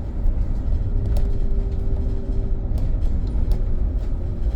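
Inside a BYD BD11 battery-electric double-decker bus on the move: a steady low rumble from the road, a faint steady whine through most of it, and scattered clicks and rattles.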